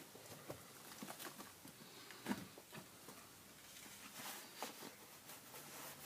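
Faint, irregular footsteps and small knocks of someone picking their way through a mud-covered, flood-damaged house.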